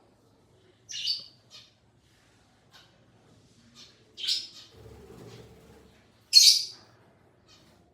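Pet parrot squawking: three short, shrill calls a few seconds apart, with a few faint chirps between them.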